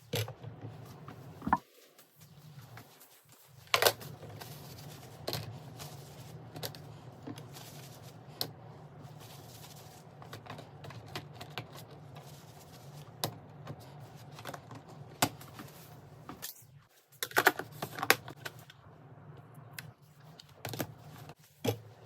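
Scattered clicks and knocks of kitchen items being handled and set down while a refrigerator is organized, with a quick run of clattering about three-quarters of the way through, over a steady low hum.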